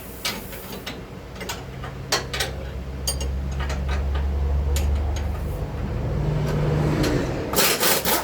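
Metal tools and suspension parts clinking and clanking in short, irregular knocks as a mount is worked off a new lower control arm. A steady low mechanical hum runs under it through the middle and stops about a second before the end.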